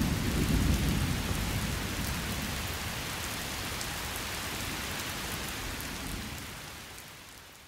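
Recorded rain, a steady hiss of falling rain, with a low rumble in the first couple of seconds. It starts suddenly and fades out toward the end.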